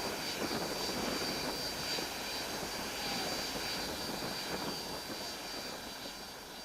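Avro Vulcan's Bristol Olympus jet engine running on the ground: a steady rushing noise with a constant high-pitched whine, fading away near the end.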